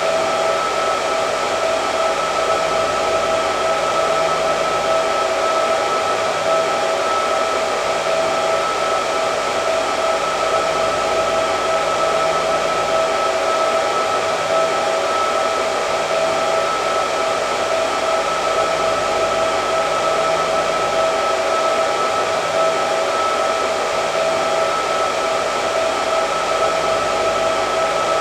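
Electric hair dryer running steadily: an even rush of blown air with a steady motor whine.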